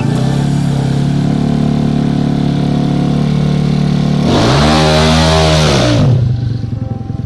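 Motorcycle engine idling steadily, then revved once about four seconds in: the pitch climbs and falls back over a second and a half before the engine drops back down.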